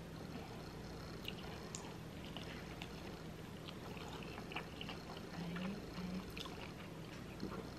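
Close-miked chewing of a deep-fried, crab-and-cream-cheese-stuffed jalapeño: soft wet mouth sounds and scattered small clicks over a faint steady hum.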